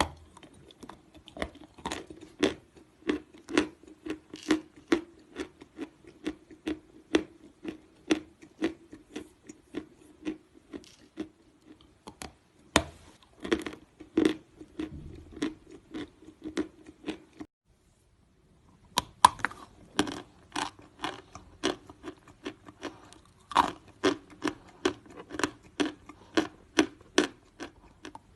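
Close-miked chewing of natural chalk: a steady run of crisp, dry crunches, about two a second, broken by a second-long pause about two-thirds of the way through.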